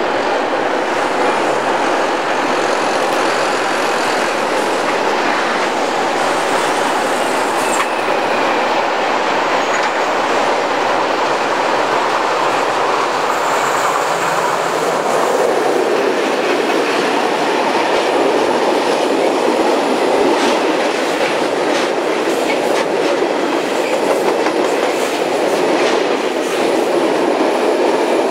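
Two ČD Cargo class 742 "Kocour" diesel-electric locomotives working hard at the head of a heavy timber freight climbing a grade. Their engines grow louder as they come up and pass about halfway through. The loaded log wagons then roll by with a steady clickety-clack of wheels over rail joints.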